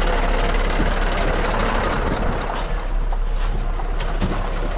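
Scania R620's V8 diesel engine running steadily at low speed, heard from inside the truck cab with a hiss over it. A few sharp clicks come in the last couple of seconds.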